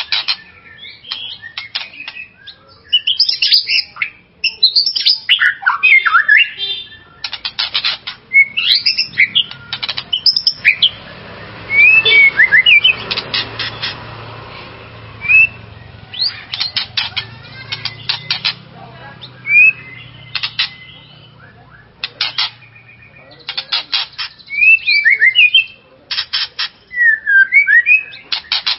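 White-rumped shama (murai batu) singing: varied whistled phrases of rising and falling notes, broken again and again by fast rattling chatter. This is the kind of heated song played to provoke a kept shama into singing.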